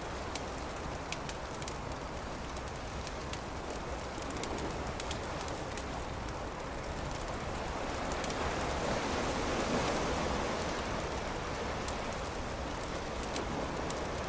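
Beach campfire crackling, with frequent sharp pops over a steady wash of noise. A surf wave swells and fades about two-thirds of the way through.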